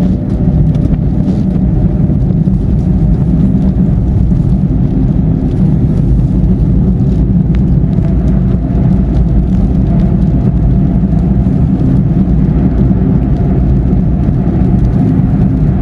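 Car moving at highway speed: steady low rumble of engine and tyre noise heard inside the cabin.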